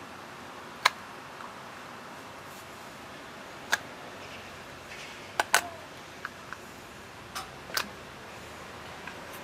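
Irregular sharp clicks and knocks of hand tools and hard plastic parts being handled while working a lawnmower's old starter rope out of its pull handle, two of them close together about halfway through, over a steady low hiss.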